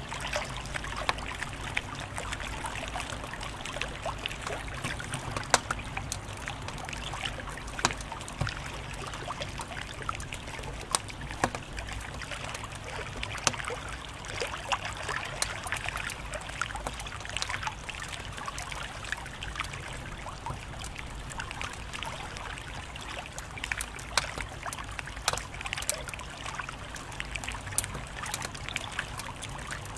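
Wood fire crackling: a steady hiss dotted with irregular snaps and pops, a few of them louder than the rest.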